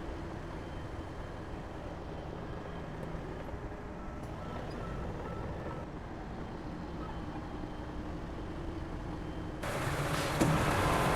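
Heavy diesel machinery engine running steadily. Near the end a much louder hissing noise cuts in abruptly.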